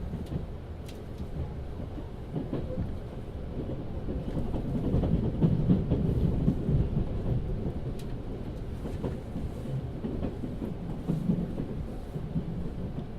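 Interior rumble of a 383 series limited express electric train running into its final stop, with a few sharp clicks from the wheels on the track; the rumble swells to its loudest in the middle and eases again.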